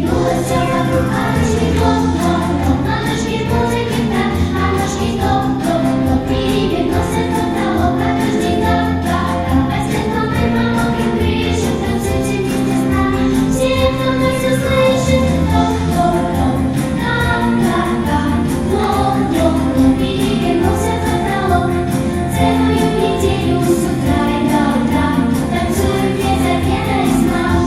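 Music: a group of voices singing a song over instrumental accompaniment with a steady beat.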